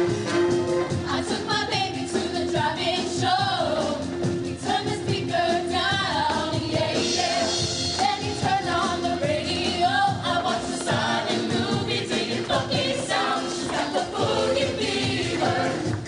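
High school show choir singing a pop number in many voices over instrumental accompaniment with a steady beat.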